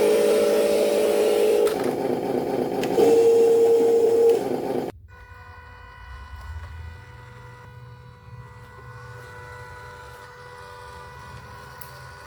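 RC truck's motor running with a steady whine, louder for a moment after about three seconds, then cut off abruptly about five seconds in. A much quieter steady hum of several even tones follows.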